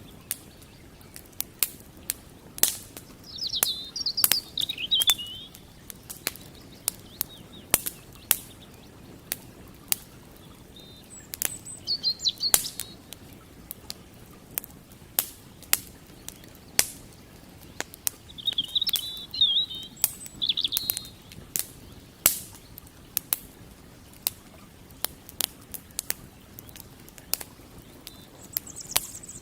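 A wood campfire crackling, with irregular sharp pops and snaps. Small songbirds chirp in short trilling phrases a few times.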